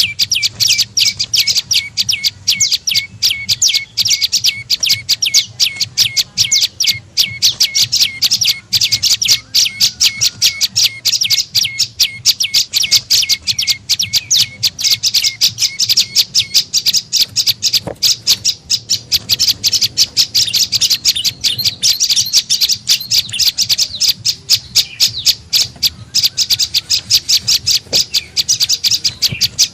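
Prenjak lumut (a small Indonesian prinia or tailorbird) calling as a bird-trapping lure: a continuous, fast chatter of short, high notes, several a second, kept up without a break.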